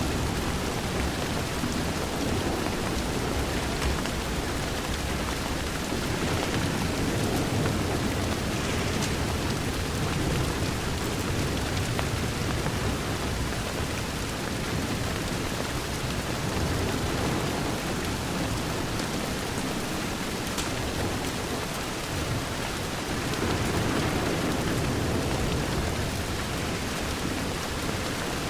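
Steady rain pattering on a window, with low rolling thunder swelling up twice.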